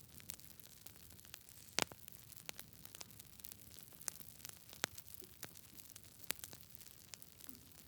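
Wood fire burning in a fireplace, crackling with irregular sharp pops over a low hiss; the loudest pop comes a little under two seconds in.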